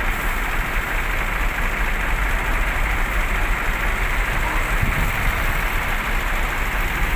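Steady low engine rumble of idling buses, with a constant hiss of background noise and no distinct events.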